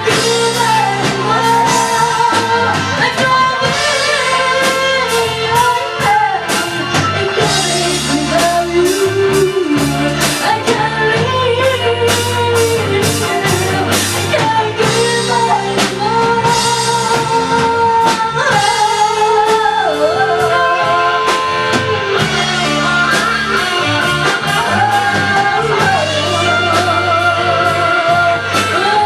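Live band music: a singer's voice over electric guitar, bass and drum kit, playing steadily through a song.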